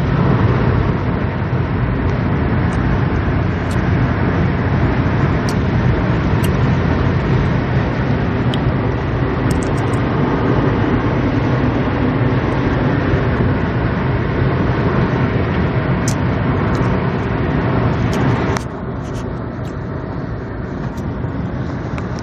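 Strong dust-storm wind rushing and buffeting the phone's microphone, a steady dense rush heavy in the low end. About eighteen seconds in it drops a little in level and the upper hiss thins out.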